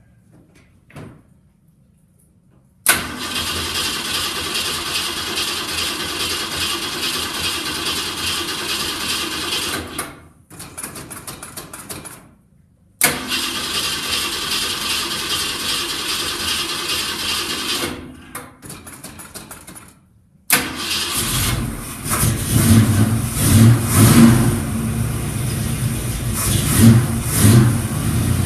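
1967 Ford's carbureted engine cold-cranked on the starter in two long tries, each lasting several seconds, with a pause between them. On the third try it catches and runs rough, revving in surges. It has sat for months, so it cranks until fuel refills a carburetor bowl the owner thinks had evaporated dry.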